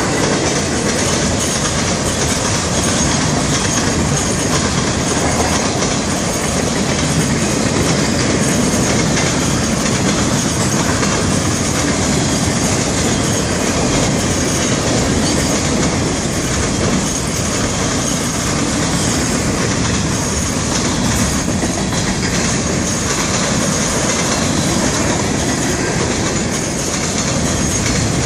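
Freight cars of a long freight train rolling past at close range: a loud, steady rumble and clatter of steel wheels on the rails, with a faint high whine over it.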